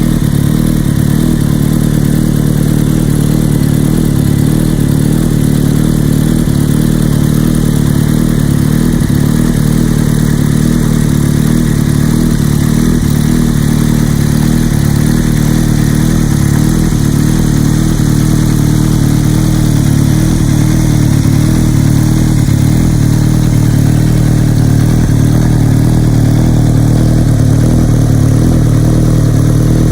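Yamaha XJR1300's air/oil-cooled inline-four running steadily at idle through an Asahina full exhaust system.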